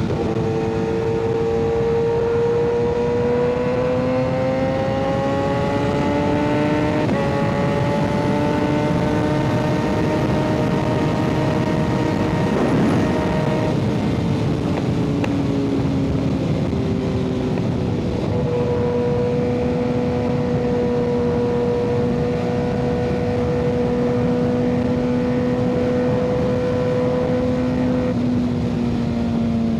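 Kawasaki ZX-6R inline-four engine through an aftermarket M4 exhaust, heard from the rider's seat while riding. The engine note climbs slowly, steps up in pitch about seven seconds in, falls off between about 14 and 18 seconds, then holds steady at cruise.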